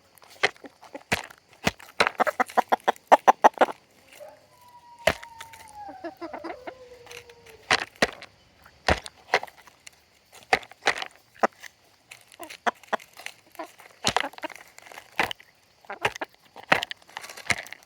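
Chickens pecking at food close up: sharp pecks scattered throughout, with a fast run of rapid pecks about two seconds in. One chicken gives a drawn-out call that falls in pitch about five seconds in.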